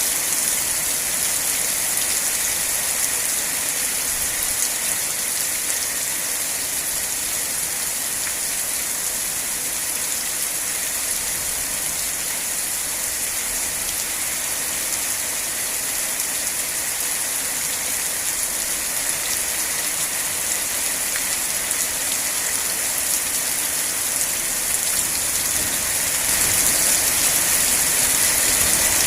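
Steady rain falling and pattering on surfaces, a dense even hiss, growing a little louder near the end.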